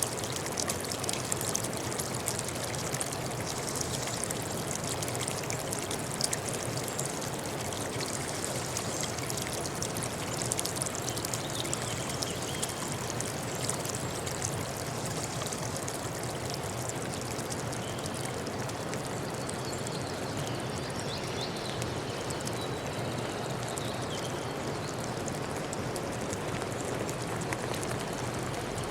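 Water running in a small stream, a steady trickling rush, with a few faint high bird chirps partway through.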